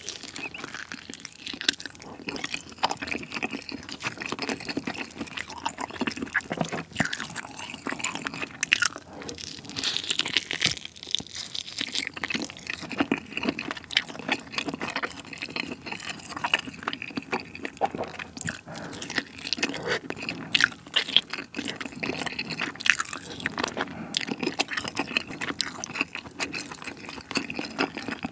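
Close-miked wet chewing and crunching of spicy braised monkfish, with many irregular small smacks and clicks of mouth and food.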